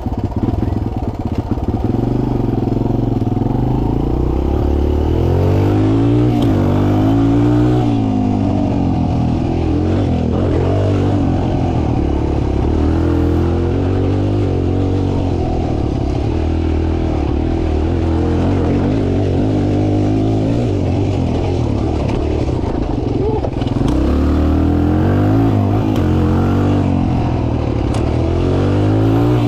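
Mini dirt bike's small engine running, its revs rising and falling again and again as it is ridden.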